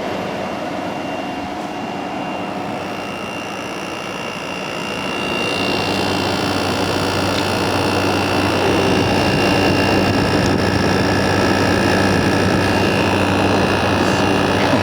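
2017 Frigidaire 8000 BTU window air conditioner running: a steady hum and airflow with a thin high whine. It grows louder about five seconds in and then holds steady.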